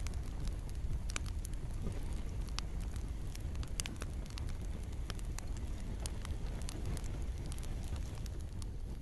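Campfire crackling, with frequent sharp pops and snaps of burning wood over a steady low rumble and hiss of flames, and a soft patter of rain behind it.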